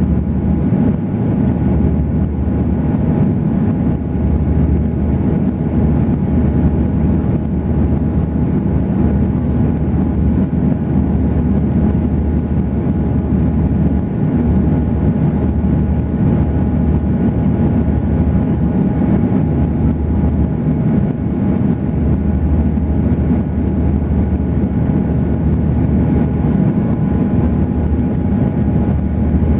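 Steady cabin noise aboard an Airbus A340 airliner in flight: a constant drone of engines and airflow with a low hum and a faint steady whine.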